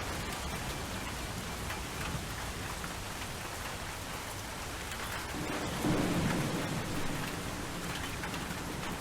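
Steady rainfall, with a low rumble of thunder swelling about five and a half seconds in, loudest around six seconds and fading over the next second or two.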